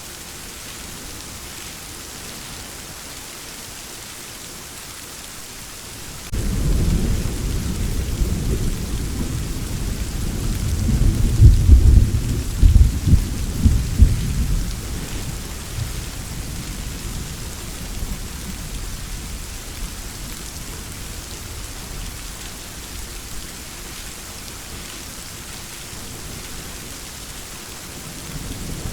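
Steady rain hiss. About six seconds in, a deep thunder rumble sets in suddenly, grows to its loudest, sharpest peaks about halfway through, then rolls away slowly, leaving the rain alone. Another rumble begins at the very end.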